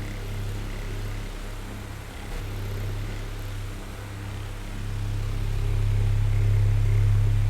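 Oscillating electric fan running: a steady low motor hum with the rush of air from the blades. It grows louder in the second half as the sweep brings it round.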